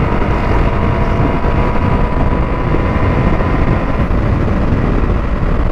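KTM Duke 200's single-cylinder engine running at a steady cruise, under heavy wind rush on the microphone.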